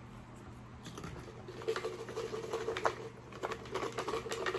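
A run of small, irregular scratching and clicking sounds close to the microphone, starting about a second in.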